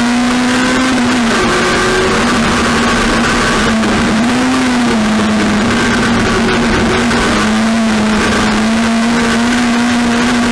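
Race car engine held at high, steady revs, its pitch wavering a little up and down a few times, over loud rushing noise.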